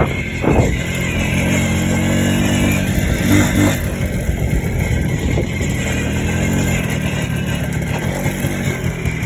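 Minsk-125 motorcycle's two-stroke single-cylinder engine running, with a couple of brief louder moments.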